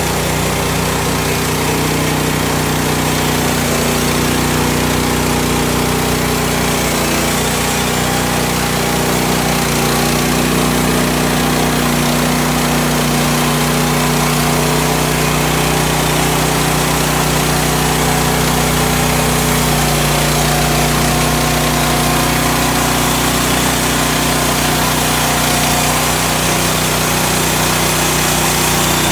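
Woodland Mills HM130 band sawmill's small gas engine running steadily under throttle, driving the band blade.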